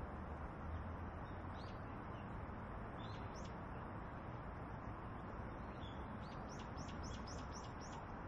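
Small birds chirping: a few scattered high chirps, then a quick run of about eight near the end, over a steady background hiss.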